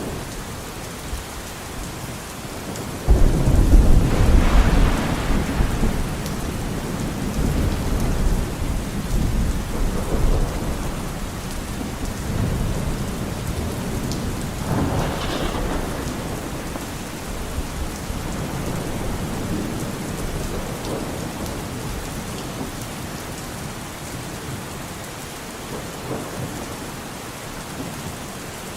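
Steady rain falling, with a sudden loud rumble of thunder about three seconds in that rolls away over several seconds, and a fainter roll of thunder about halfway through.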